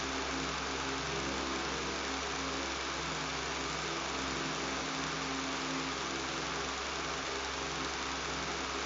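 Electric fan running with a steady buzz: an even hiss of moving air over a low hum, unchanging throughout.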